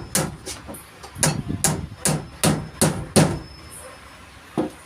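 Carpenter's hammer striking nails in a steady run of blows, about two to three a second, stopping after about three seconds. One lighter knock follows near the end.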